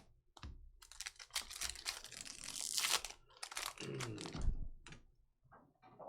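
Trading cards and foil pack wrappers being handled: a rapid run of small clicks as cards are flicked through, with crinkling and tearing that peaks a couple of seconds in, then a few scattered clicks.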